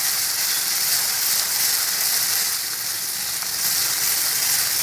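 Browned onions and ginger-garlic paste sizzling steadily in hot oil in a kadai, being fried until the paste's raw smell cooks off.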